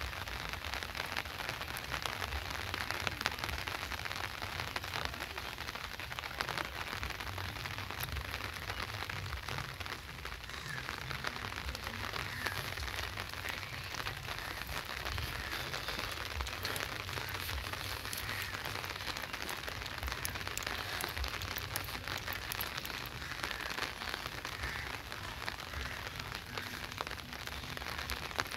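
Steady rain falling, many small drop ticks over an even hiss.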